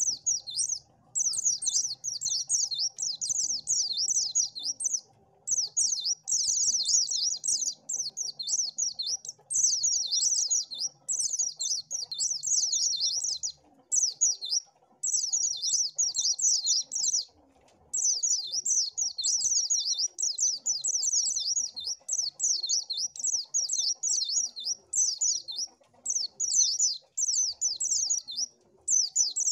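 White-eye (pleci) singing a fast, high twittering song in phrases of a few seconds, broken by short pauses.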